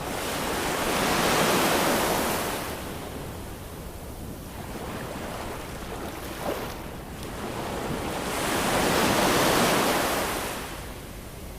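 Ocean waves breaking and washing on a shore: two broad swells of surf, one peaking about a second and a half in and another near the end, with a quieter wash between them.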